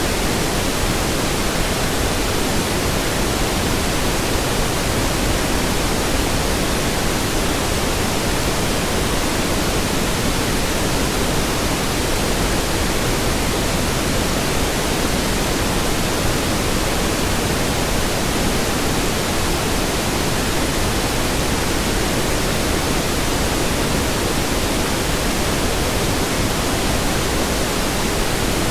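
Steady pink noise: an even hiss that holds at one level without change.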